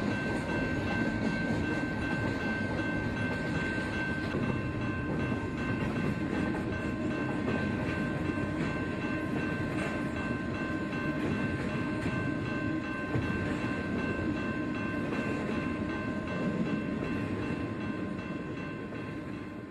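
A train running along the tracks: a steady rumble with steady high tones above it, fading away near the end.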